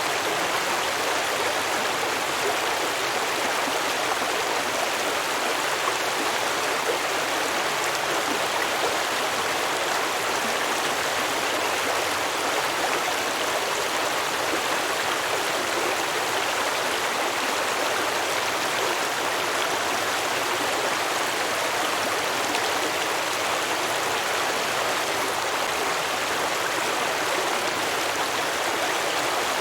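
Small stream flowing and babbling over rocks, a steady, even rush of water with no pauses.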